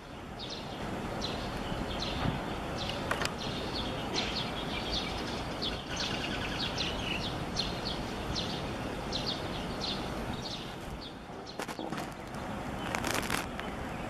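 Birds chirping repeatedly, short high calls a few times a second, over a steady background of outdoor street noise. A brief rushing noise about thirteen seconds in.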